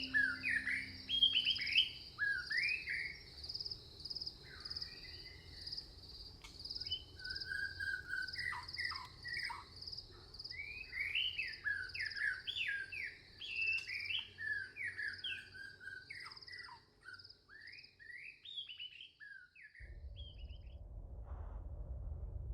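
Songbirds chirping and singing in quick rising and falling phrases over a steady high pulsing trill. The birdsong stops near the end and a low rumble takes over.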